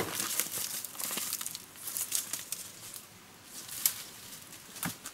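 Irregular rustling and crinkling, as of dry plant material being handled, in short bursts, with a sharp click at the start.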